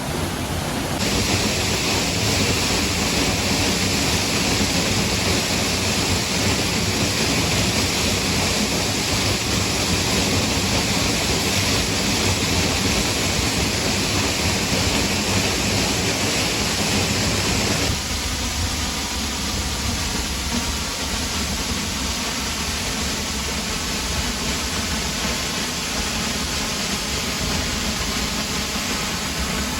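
Salto El Brujo waterfall rushing: a loud, steady roar of falling water. About two-thirds of the way in the sound changes abruptly, losing much of its hiss and keeping a deeper rumble.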